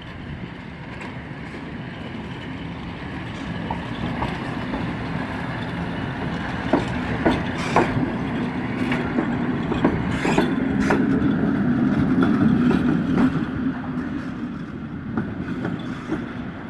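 A train passing: its running noise grows louder toward a peak a little past the middle and then fades, with a run of sharp clicks from the wheels over the rail joints as it goes by.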